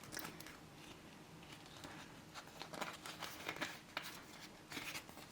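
Faint handling sounds of plastic zip cash wallets being sorted: soft rustling and a few light clicks and taps.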